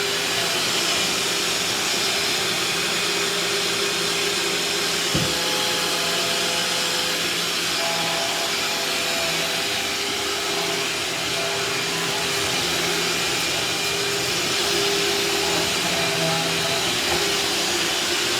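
Vacuum cleaner running steadily as it is pushed over a kitchen floor, with one sharp knock about five seconds in.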